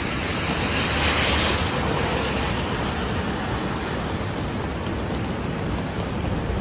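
Steady rush of heavy rain, swelling briefly a second or so in.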